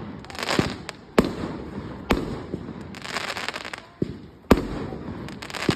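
Fireworks going off: a run of sharp, irregular bangs with bursts of crackling between them.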